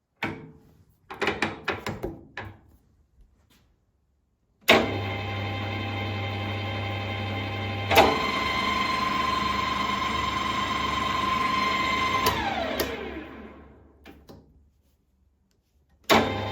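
Emco Maximat Super 11 metal lathe: a few clicks and knocks of its controls, then the motor and geared headstock start suddenly and run steadily with a low hum and a whine. A click comes a few seconds later and a higher whine joins. The lathe is then switched off and spins down, falling in pitch, and starts up again suddenly near the end.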